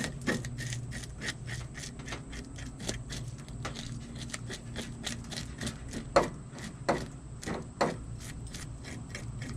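Old-style metal fish scaler scraping the scales off a bream, in quick repeated strokes about three a second, a few of them louder, over a steady low hum.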